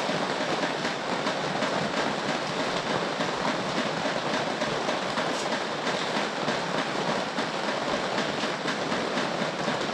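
Steady rain falling, an even hiss with fine patter.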